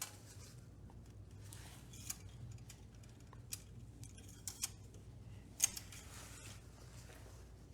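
Faint metal-on-metal clicks and scrapes, several of them a second or so apart and the sharpest about five and a half seconds in, as a tractor's engine-oil dipstick is drawn from its tube, handled and pushed back.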